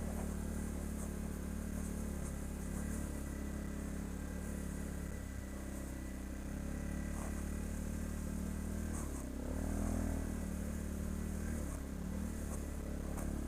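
ATV engine running steadily at low trail speed, rising briefly in pitch and loudness about nine to ten seconds in, then settling back.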